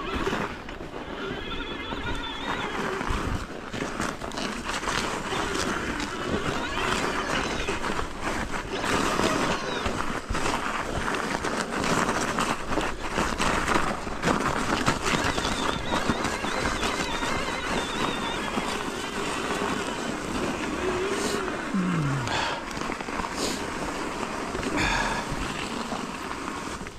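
E-mountain bike ride noise on a snowy trail: a steady rushing sound with frequent knocks and rattles over bumps, and brief whines now and then.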